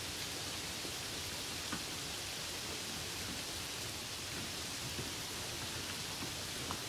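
Steady rain falling on a puddle: an even hiss, with three louder single drops splashing.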